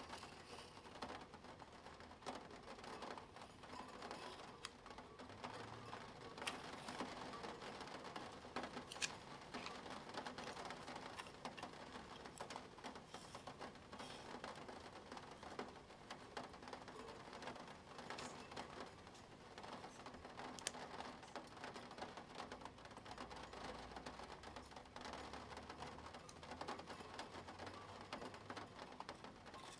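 Plastic Spirograph gear wheel and pen drawing on paper: a continuous, faint run of small ticks and scratching, with a few sharper clicks.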